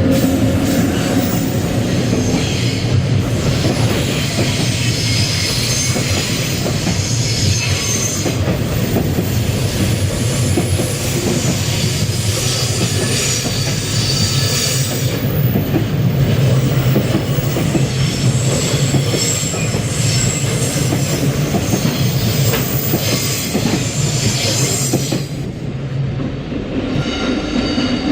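Freight train's wagons rolling past on the rails in a continuous rumble and clatter, with short high-pitched wheel squeals coming and going.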